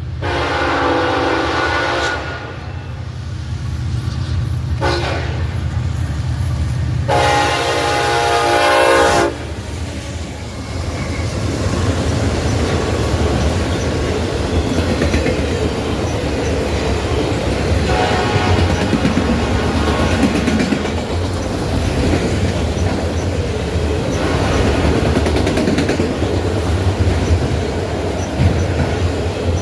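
Diesel locomotive horn blowing a long blast, a short one and another long one over the rumble of the engines. The train then rolls past with wheels clattering over the rail joints, and the horn sounds faintly once more partway through.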